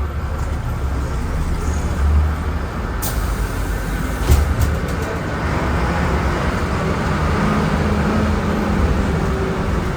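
Volvo B10M bus's diesel engine running with a steady low rumble. Two short knocks come about three and four seconds in, and a faint whine joins near the end.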